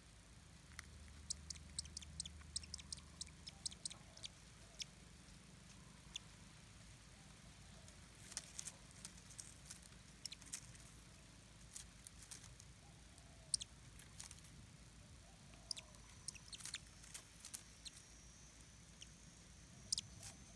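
Faint, irregular high-pitched clicks and ticks over a low background hum, with a thin steady high tone coming in near the end.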